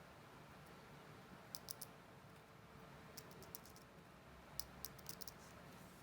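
Small sharp clicks in three short clusters over a faint steady hum: light handling of watch parts or small tools during bench work on a Vostok Amphibian watch.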